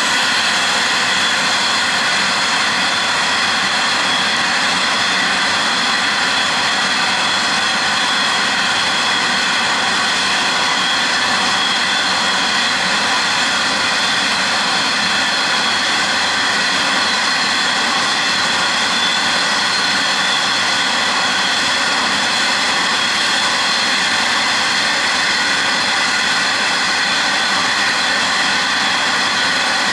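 Loaded coal hopper wagons rolling past: a steady roar of steel wheels on rail, with several steady high tones ringing over it throughout.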